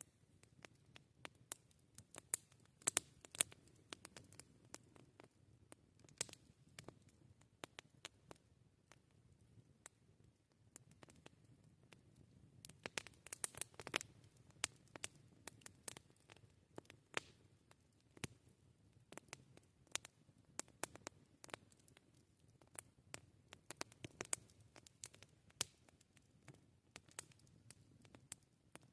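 Wood campfire crackling: irregular sharp pops and snaps over a faint low rumble of the fire, with busier bursts of crackling about three seconds in and again near the middle.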